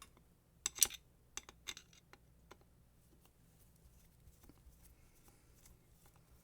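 A few sharp clicks and taps, the loudest about a second in, then faint scattered ticks: hand tools and the metal-and-plastic body of a small angle grinder being handled as its gearbox is opened.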